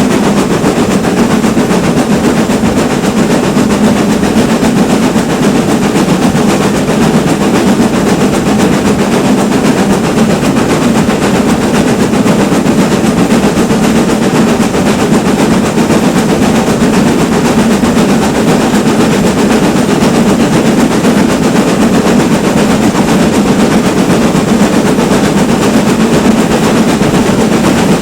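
Steam locomotive exhaust beating in a loud, rapid, steady rhythm as the engine works hard under steam.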